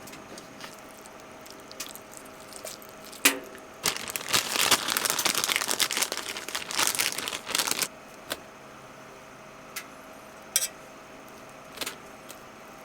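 Close crinkling and crumpling of a wrapper or sheet of paper being handled and torn, lasting about four seconds in the middle, with scattered light clicks and knocks before and after.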